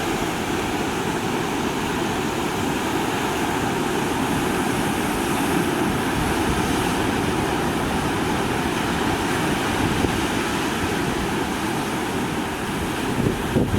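Big storm waves breaking along the coast in heavy typhoon seas: a steady, dense rush of surf, with wind buffeting the microphone in a few gusts near the end.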